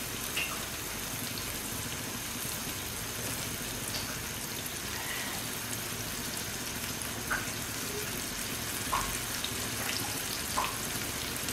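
Wet masala paste bubbling and sizzling in hot oil in a frying pan as it is fried down: a steady hiss with a few small pops.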